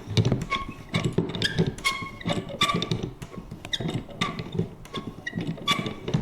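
Vintage paper punch worked over and over: clacks of the mechanism with short squeaky creaks, about two or three a second.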